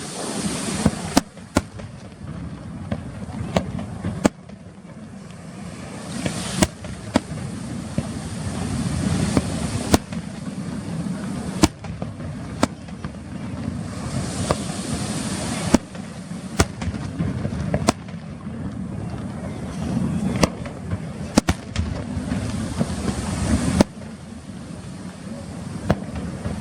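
Aerial fireworks display: loud, sharp shell bursts come every second or two at irregular intervals, over a continuous noisy rumble between the bangs.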